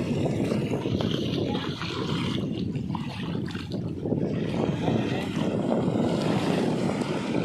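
Strong sea wind buffeting the microphone: a steady low, gusting rumble.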